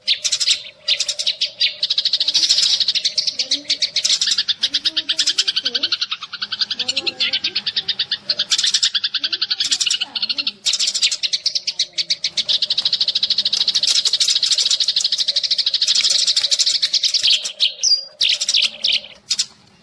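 Sparrows chirping in a fast, dense, continuous chatter of short notes, played as a trapping decoy call. The chatter breaks briefly about halfway through and thins to scattered chirps near the end.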